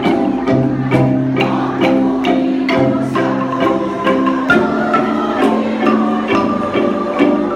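Kolintang ensemble playing: wooden xylophones struck with mallets, notes held as rapid tremolo rolls over a sustained bass line, with a steady beat of sharper strikes.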